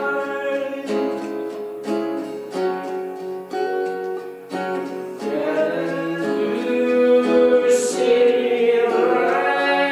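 Live acoustic guitar strummed under a voice singing long, held notes; the chords change every second or so.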